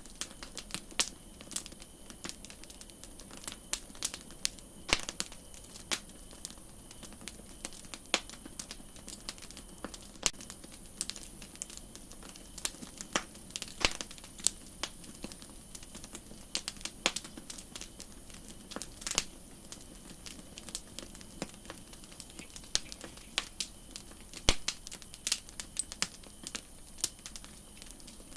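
Wood campfire crackling: irregular sharp pops and snaps, several a second, over a steady high hiss.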